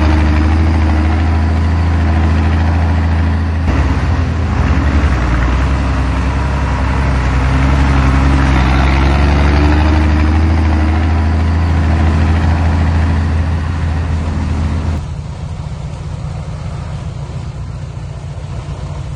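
Heavy diesel engine running steadily under load, a loud low drone with a rough, noisy edge. About fifteen seconds in most of the sound cuts away abruptly, leaving only the low drone.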